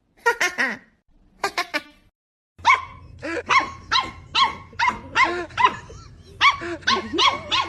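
A dog barking repeatedly and fast, about three barks a second, with a brief pause about six seconds in. Before that come a few short calls, then a moment of silence.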